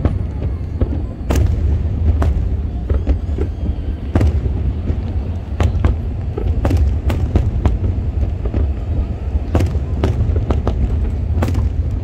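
Aerial fireworks bursting in quick, irregular succession: many sharp bangs, a few standing out louder, over a steady low rumble.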